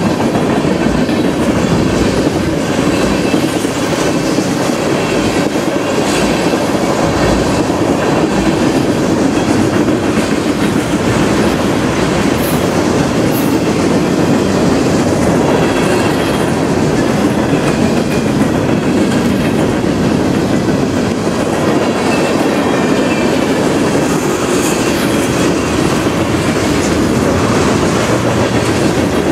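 Mixed freight train of tank cars and flatcars rolling steadily past: a continuous rumble and clatter of steel wheels on the rails, even in loudness throughout.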